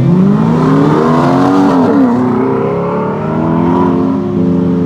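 A car engine accelerating away, its pitch climbing for about two seconds, dipping and picking up again, then holding steady.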